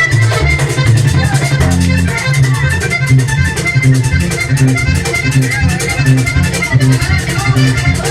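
Vallenato band playing an instrumental passage, with an accordion lead over a moving bass line and a fast, steady percussion rhythm.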